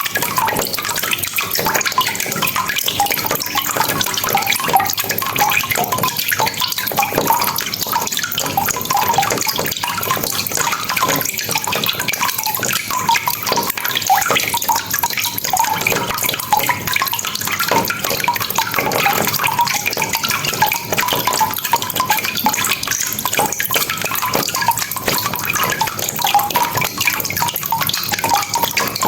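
Steady rain falling: a continuous, even wash of many drops, unbroken throughout.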